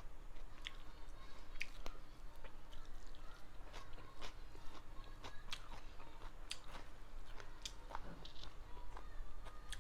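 A person chewing and eating close to the microphone during a mukbang of rice with mutton curry and pickle, with irregular wet mouth clicks and smacks.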